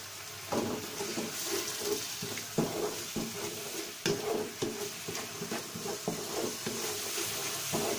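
Chili sambal paste sizzling in hot oil in a wok while a wooden spatula stirs and scrapes it in repeated strokes, the paste being sautéed until cooked.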